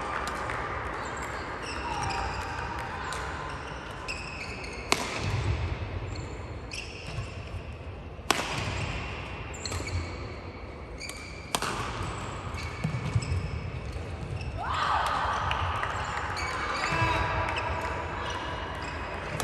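Badminton play on a hall court: a few sharp racket strikes on the shuttlecock, three of them about three seconds apart, and high squeaks of shoes on the court floor near the start and again about fifteen seconds in.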